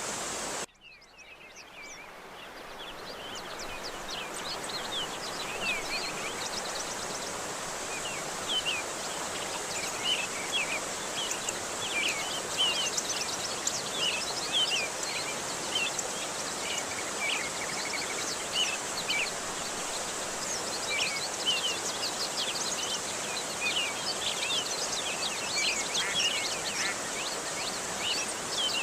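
Steady rush of flowing water with many small birds chirping over it in quick, short calls. Under a second in, the sound cuts out and fades back in over a few seconds, as a looped recording restarting.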